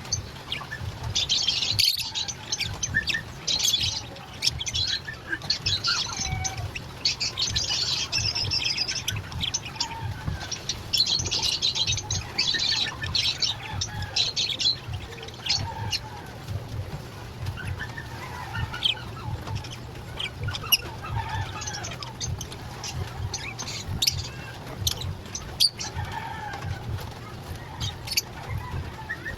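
Lovebirds chattering and chirping: dense, rapid high-pitched calls through the first half, then scattered short calls and clicks, over a steady low hum.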